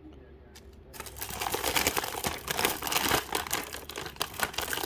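Crinkly packaging of a toy capsule collectible being handled and opened. It starts about a second in and goes on as a loud, irregular crinkling.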